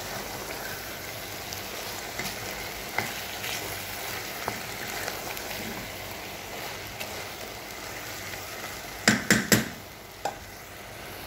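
Chicken and onion pieces sizzling in a steel pot while a wooden spoon stirs them, with small scrapes and clicks. Near the end there is a quick run of four sharp knocks, then one more, as the spoon strikes the pot.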